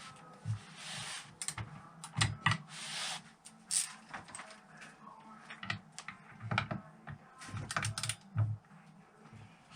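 Irregular small clicks, taps and light knocks of hand tools and metal engine parts being handled, with two brief hisses about one and three seconds in.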